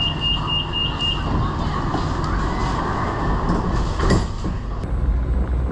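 Bangkok MRT train's door-closing warning beeping rapidly, stopping about a second in, over the carriage's steady running noise. Near the end the sound changes abruptly to a steady low hum.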